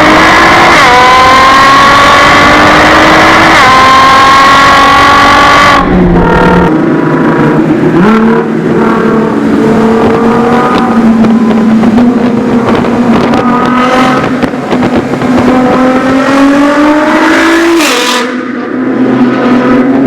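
Nissan GT-R R35's twin-turbo V6 through an Armytrix valvetronic exhaust, accelerating hard: the engine note climbs and drops sharply at quick gear changes about a second in, near four seconds and near six seconds. The note then falls away and the engine pulls again with a long, slow rise in pitch before easing off shortly before the end.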